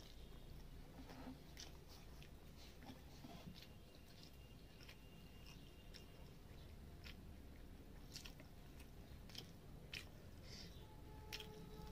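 Faint chewing and mouth sounds of someone eating rice and fried fish by hand, with scattered small clicks as fingers mix rice on a steel plate.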